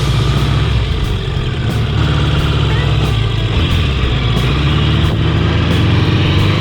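A 1000 cc vintage motorcycle engine running steadily while the bike is ridden, with wind and road noise over it.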